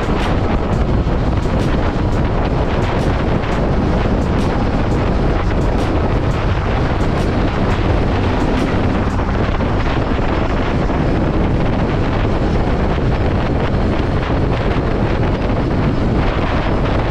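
Steady, loud wind rush buffeting the microphone of a moving motorcycle, with vehicle and road noise underneath.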